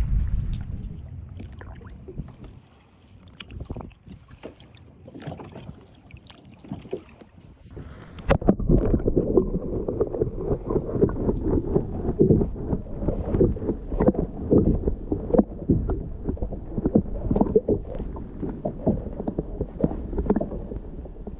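Water splashing and lapping against a plastic kayak hull, with scattered knocks and clatter from the boat. It is quieter at first, then busier and louder from about eight seconds in.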